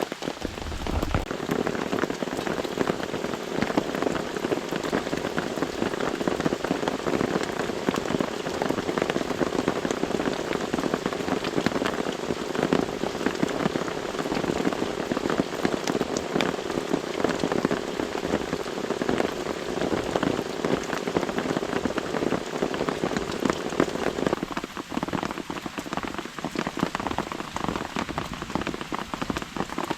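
Steady rain pattering on a camping tarp overhead, a dense drumming of drops. The deeper drumming thins out about 24 seconds in while the patter carries on.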